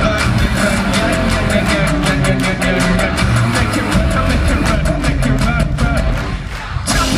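Live rock band playing with heavy guitars and drum kit.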